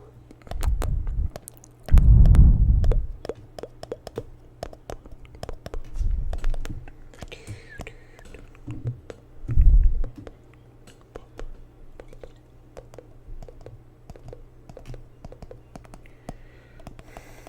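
Close-miked ASMR trigger sounds: a series of deep, low thuds and rumbles, loudest about two seconds in and again near ten seconds, with many small sharp clicks and taps scattered throughout.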